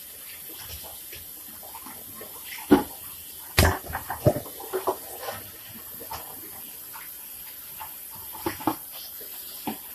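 Water running from a kitchen tap into the sink, with sharp knocks and clacks of dishes being handled, several about three to five seconds in and a few more near the end.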